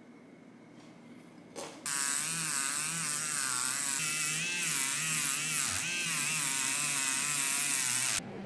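An electric power tool runs with a whine that wavers up and down in pitch as it is worked under varying load. It starts abruptly after a click about two seconds in and cuts off near the end.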